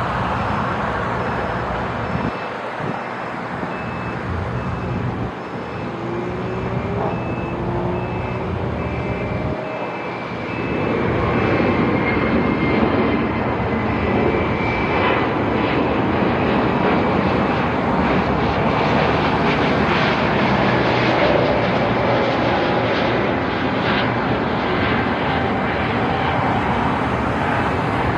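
Jet engine roar from a Boeing 777-300ER's GE90 turbofans as the airliner passes. It grows louder about ten seconds in and stays loud.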